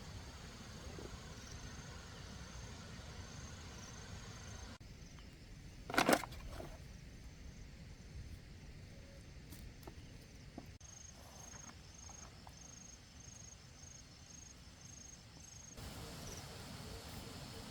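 Insects chirping in a steady, high, pulsing trill over a soft outdoor background hiss. A single brief, louder sound cuts in about six seconds in.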